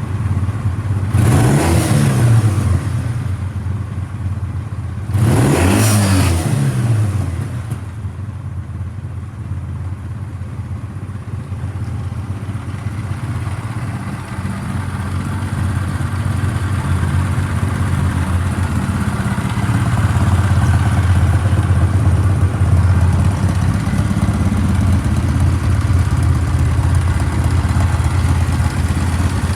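Kawasaki W650's air-cooled parallel-twin engine blipped twice, about a second in and again about five seconds in, each rev rising and falling quickly, then settling into a steady idle.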